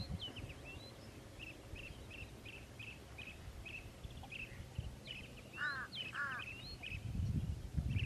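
Birds calling: a quick series of short high chirps, about three a second, with two lower, harsher calls close together about two-thirds of the way through. A low rumble sits under it at the start and again near the end.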